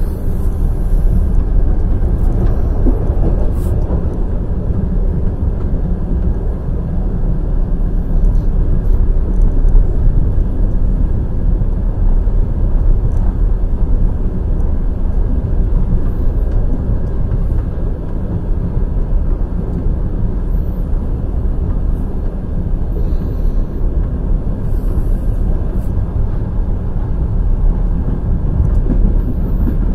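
Night express passenger train running at speed: a steady low rumble of wheels on the rails, with a few faint clicks.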